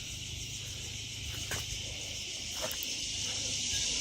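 Steady high-pitched insect chorus, growing slightly louder near the end, with a couple of faint clicks.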